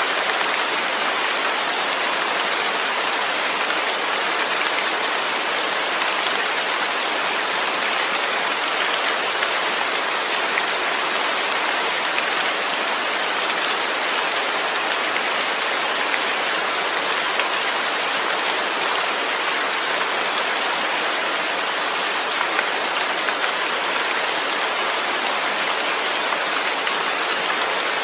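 Steady rainfall: an even patter of rain falling on surfaces, constant in level throughout.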